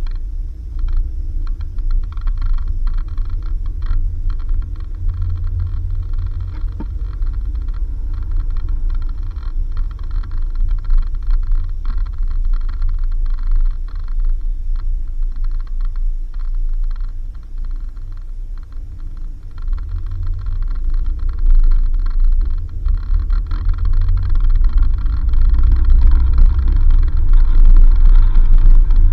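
A vehicle driving on a rough dirt road: a steady low rumble with many small rattles and knocks, louder near the end.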